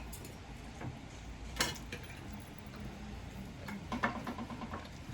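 Cutlery clicking now and then against plates during a meal, with one sharper click about a second and a half in.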